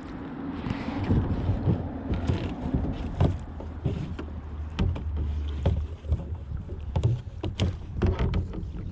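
Water lapping and splashing against a kayak hull, with scattered knocks and a low rumble of wind on the microphone.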